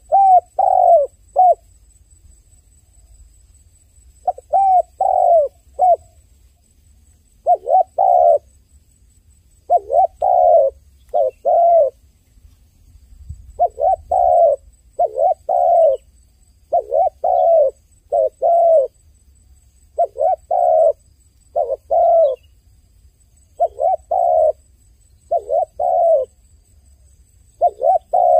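Dove cooing over and over, in short phrases of two or three coos about every two seconds, with a longer pause a couple of seconds in and again near the middle.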